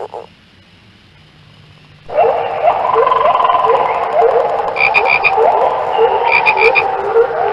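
A chorus of frogs breaks out about two seconds in: many overlapping calls, with short upsweeping notes repeating through it. Twice there are bursts of rapid, higher-pitched clicking calls.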